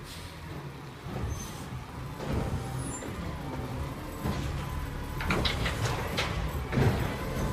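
Recycling garbage truck's engine running steadily, growing louder about two seconds in, with a run of clanks and knocks starting about five seconds in.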